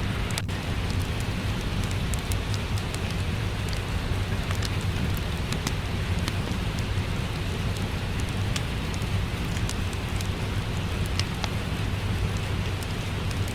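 Steady rain falling, an even wash of noise with a low rumble underneath. Through it come scattered small sharp crackles and pops from a wood fire.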